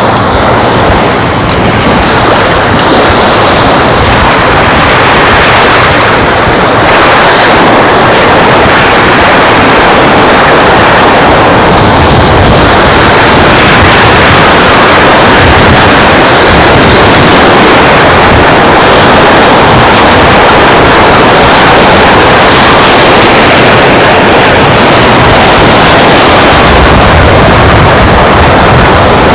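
Loud, steady rush of surf breaking on the beach, mixed with wind buffeting the microphone.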